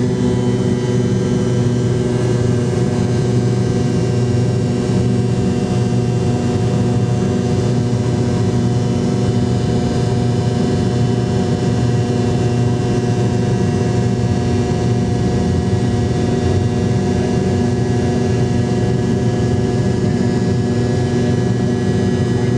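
Steady jet-engine drone of a McDonnell Douglas MD-88's rear-mounted Pratt & Whitney JT8D-200-series turbofans, heard inside the cabin from a seat beside the engines. A loud, even roar with several steady hums and whines riding on it, unchanging throughout.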